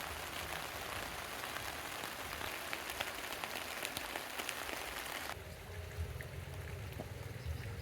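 Heavy rain falling, a dense hiss full of separate drop hits. About five seconds in it cuts off abruptly, leaving a low steady rumble with faint steady tones.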